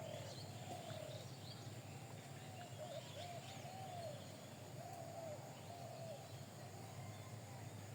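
Birds calling: a string of short, arched cooing notes, with faint high chirps in the first few seconds over a steady low hum.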